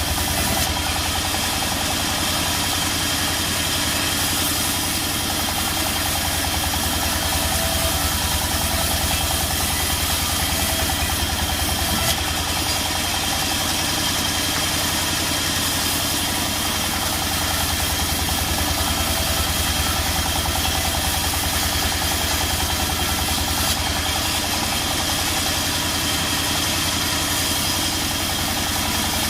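Engine running steadily at idle with a fast, even low thudding pulse, unchanging throughout.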